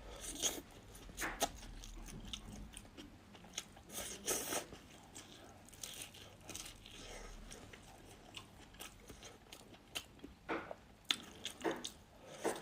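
A person eating close to the microphone: biting and chewing food, with crunching, in irregular short bursts.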